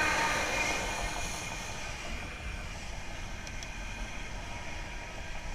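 Steady rushing of wind and tyres while riding a bicycle, heard on the rider's own microphone. A louder passing whoosh fades away over the first two seconds.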